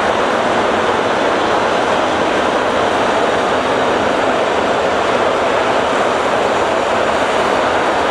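A train passing close by at speed: a loud, steady rolling noise of wheels on rail that holds evenly throughout.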